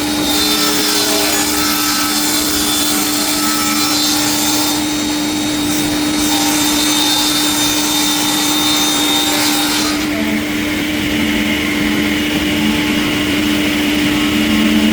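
Industrial sawmill machinery running, sawing wood: a steady hum under a loud, rasping hiss whose high end drops away about ten seconds in.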